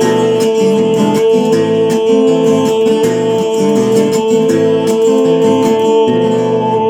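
Acoustic guitar strummed in a steady rhythm over a sustained held note: an instrumental passage of a song with no voice.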